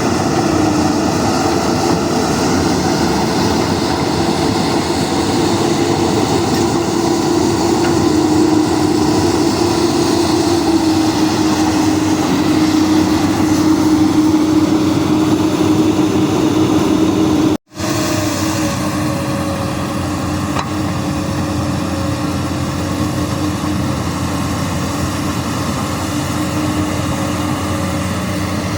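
Komatsu PC200 excavator's diesel engine running steadily with a held droning tone as the machine works. A sudden, very brief dropout about two-thirds of the way through, after which it runs on slightly quieter.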